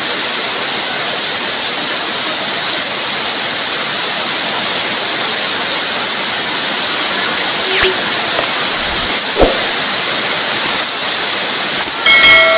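Heavy rain falling steadily, a dense even hiss. Near the end a louder chime-like electronic sound effect of several steady tones cuts in over the rain, from a subscribe-button animation.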